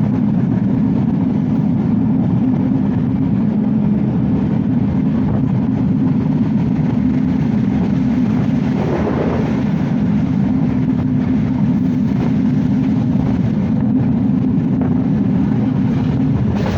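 Steady, loud low rumble of a passenger express train running along the track, with a brief swell about nine seconds in.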